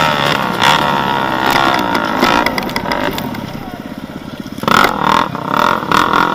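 Off-road vehicle engine revving up and down under load, easing off about four seconds in, then picking up sharply again.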